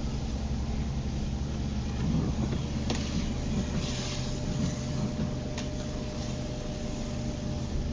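Inside a car's cabin driving in the rain: a steady low engine and road rumble, with two brief knocks a few seconds apart.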